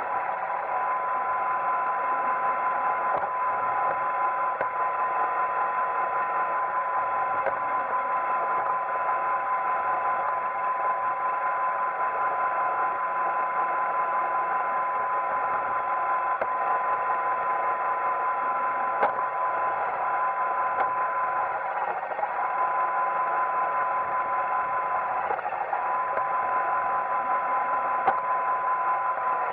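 Roomba 880 robot vacuum running: a steady whirr of its vacuum motor and brushes with a high whine, the whine dipping briefly twice, and a couple of faint clicks.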